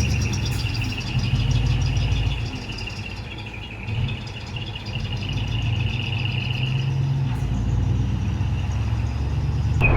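Hino Profia Teravi V8 diesel engine running through straight-through dual exhausts, a deep steady rumble. It eases off about two and a half seconds in and picks up again around four seconds.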